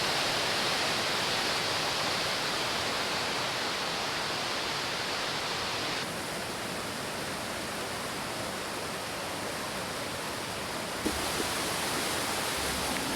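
Shohola Falls on Shohola Creek: a steady rush of falling water. Its level drops a little about halfway through and comes back up near the end.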